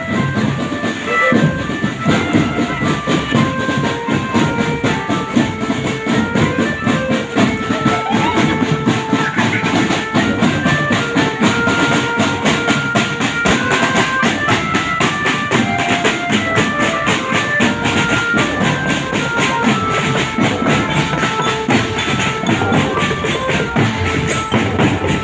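Live Javanese barongan procession music: fast, dense drumming under a high melody line of short held notes that step up and down.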